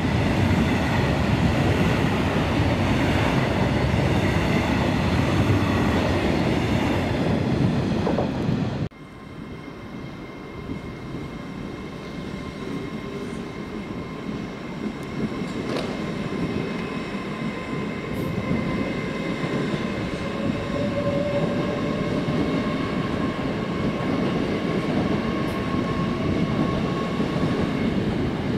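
A train running past at close range, loud and rumbling. About nine seconds in the sound cuts off abruptly to a quieter train with a steady whine, which slowly grows louder.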